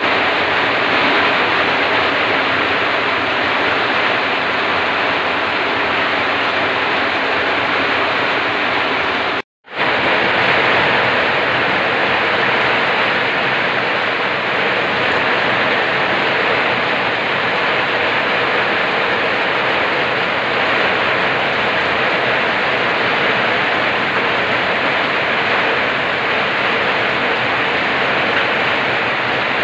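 Steady downpour of rain, a dense, even hiss that cuts out for a moment about nine seconds in and then carries on.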